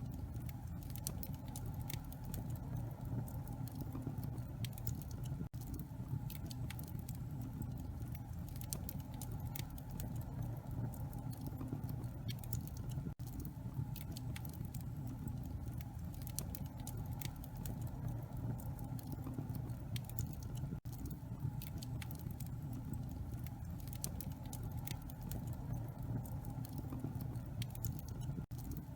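Wood fire crackling in a fireplace: many small irregular pops and snaps over a steady low rumble of burning logs. The sound briefly drops out four times, about every seven and a half seconds.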